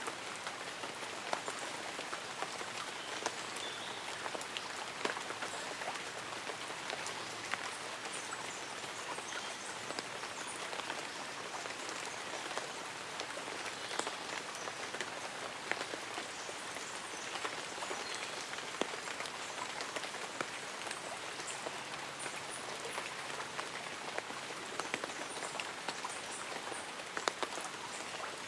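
Light rain falling on leaves and an umbrella: a steady soft hiss with many separate drop ticks scattered throughout.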